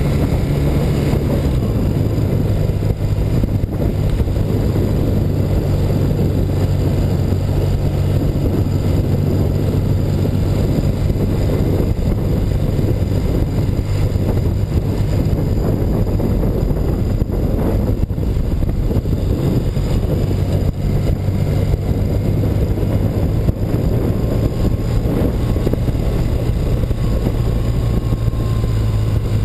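BMW R100RS's air-cooled flat-twin engine running steadily on the move, with wind rushing over the microphone. The engine note steps down to a lower pitch about a second and a half in.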